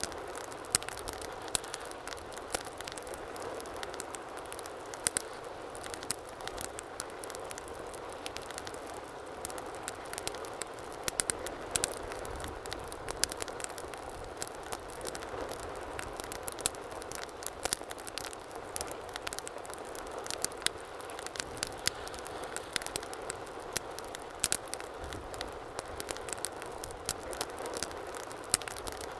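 Wood fire burning in a fireplace: a steady soft rush of flames with many small crackles and frequent louder pops throughout.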